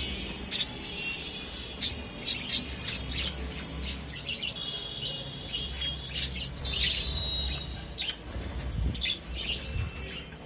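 Budgerigars chirping and chattering: a busy run of short, sharp chirps mixed with warbled whistles.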